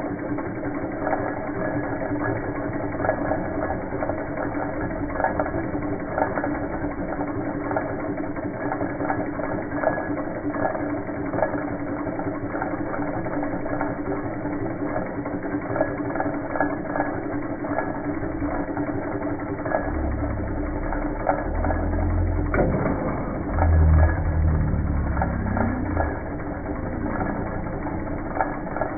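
Two small Stirling engines running: a steady hum under a fast, continuous mechanical clatter of their moving linkages. A few low thuds come about two-thirds of the way through.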